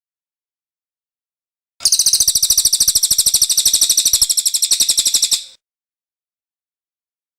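Cililin bird singing: one high, fast trill of rapidly repeated notes, starting about two seconds in and lasting about three and a half seconds.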